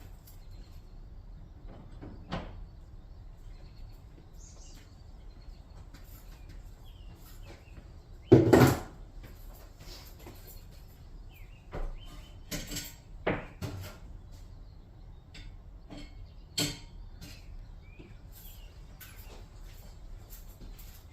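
A few scattered knocks and clunks, the loudest a short clatter about eight seconds in, with a cluster of smaller knocks a few seconds later.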